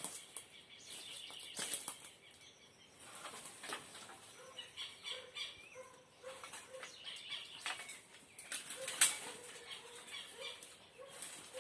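Birds chirping faintly in short clusters, with scattered clicks and rustles.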